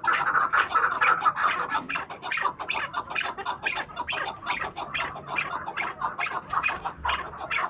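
Many chukar partridges calling at once: a dense, continuous run of rapid, sharp clucking notes, several a second.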